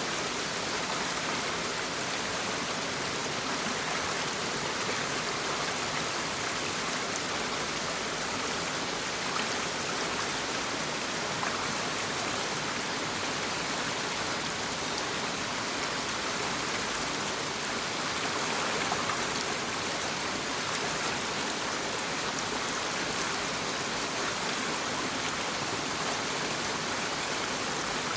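Shallow brook babbling steadily over stones, an even rushing and trickling of water without a break.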